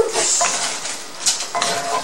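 Chicken stir-fry sizzling in a cast-iron skillet while a spatula stirs and scrapes through it, with a couple of scraping strokes against the pan a little past halfway.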